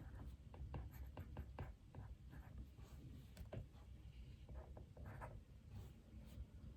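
Keystrokes on a computer keyboard: a quick run of light clicks in the first two seconds, then scattered single taps, over a faint low room hum.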